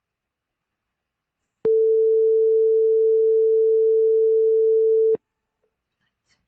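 Simulated buzzer of a PIC microcontroller microwave oven project sounding one steady, single-pitched beep for about three and a half seconds, starting and stopping abruptly. It is the buzzer signalling that the timed cooking cycle has finished.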